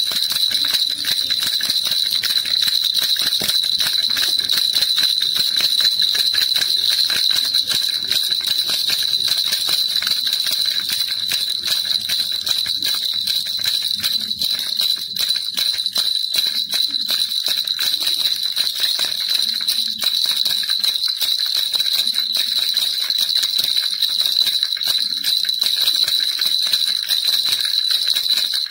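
A baby rattle (kilukiluppai) shaken without pause, giving a dense, fast jingling with a bright ringing tone.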